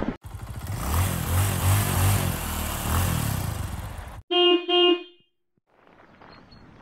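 A vehicle running for about four seconds, then two short horn toots at one pitch, after which the sound cuts off suddenly.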